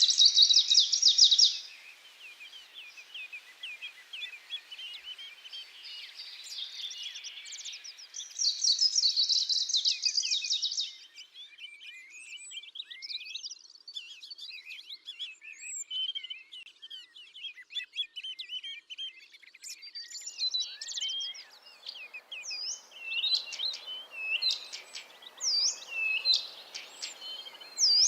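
Several songbirds singing. A loud, rapid high trill opens and returns about a third of the way in, with a chatter of other calls between, and a run of sharp repeated chirps near the end.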